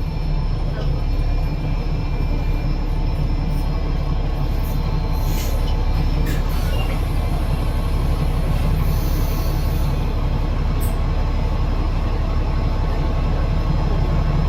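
The drivetrain of an Alexander Dennis Enviro500 MMC double-decker bus, with a Cummins ISL8.9 diesel engine and a Voith DIWA864.5 automatic gearbox, heard from on board while the bus runs: a steady low drone with faint whining tones over it. A brief high hiss comes about nine seconds in.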